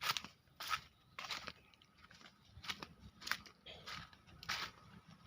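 Footsteps crunching on dry ground cover, about one step every half second or so, with a short pause around two seconds in.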